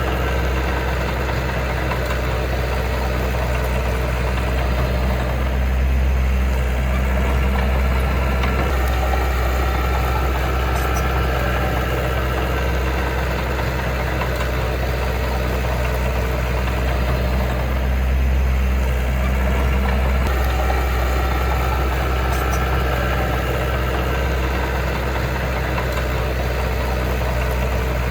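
Heavy machine's diesel engine running steadily with a deep, even drone, swelling slightly twice.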